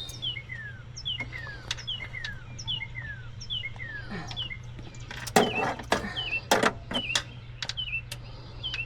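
A songbird calling with a string of short down-slurred chirps, about two a second. Several sharp clicks and knocks come in the second half, and a steady low hum runs underneath.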